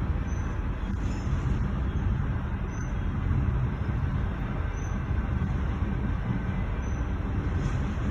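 CSX freight train's intermodal cars rolling past over a road crossing, a steady, unbroken low rumble heard from inside a car waiting at the crossing.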